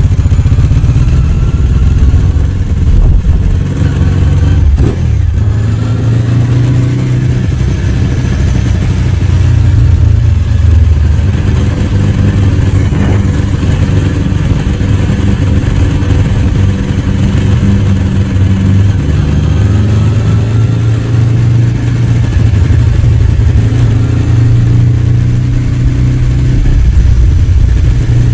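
Ducati 749 superbike's L-twin engine running while ridden through city traffic. Its low note holds mostly steady, with the pitch shifting a few times as the throttle changes.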